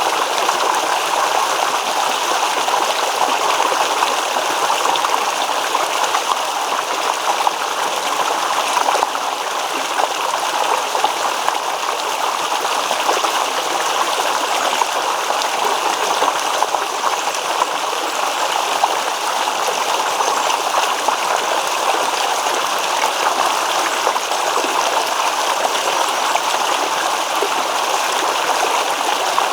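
A shallow stream babbling and rippling over stones: a steady, continuous rush of running water with fine trickling detail.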